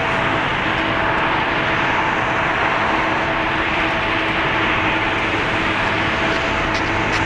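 Boeing 777-200LR's GE90-110B1 turbofan engines on landing: a steady rushing jet noise with two faint steady hums running through it.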